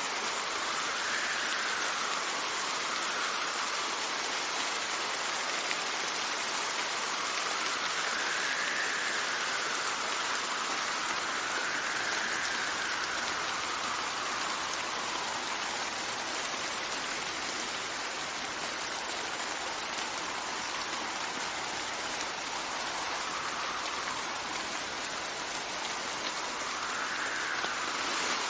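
Steady heavy rain with wind, the wind swelling and fading in a soft rising-and-falling whistle every few seconds.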